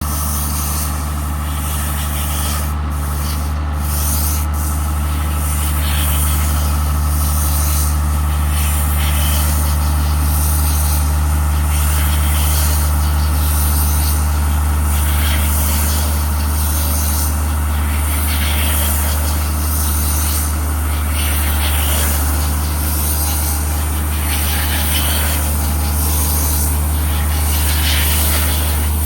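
John Deere tractor engine running at a steady speed while powering a bale wrapper that wraps grass bales in film for silage, with a fluctuating rustling noise over the steady low hum.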